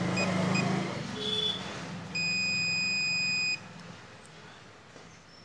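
Electronic beeps: two short high beeps, a brief chirp, then one long steady beep lasting about a second and a half, over a low hum that fades out after about two seconds.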